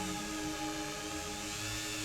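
Rotary tool spinning a wire brush against small diecast axles and wheels: a steady whine with a hiss, over background music.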